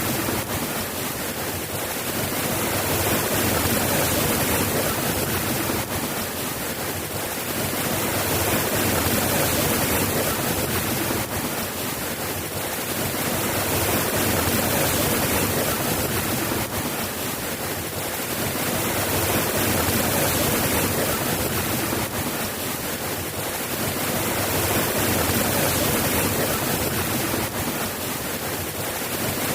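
Steady soft rain, an even hiss that swells and eases gently about every five seconds.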